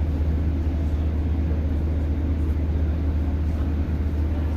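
Steady low drone inside the passenger saloon of a Class 150 diesel multiple unit: its underfloor diesel engine running, with a rumbling noise from the running gear over it.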